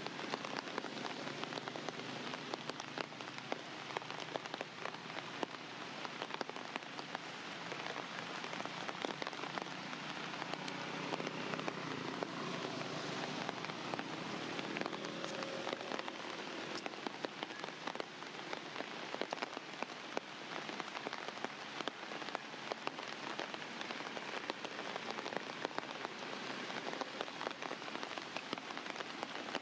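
Steady rain falling, with many small sharp drop hits close by.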